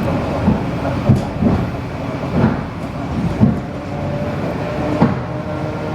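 ED4M electric multiple-unit train running along the line: a steady rumble with irregular knocks and thumps from the wheels and running gear, and a faint steady whine coming in during the second half.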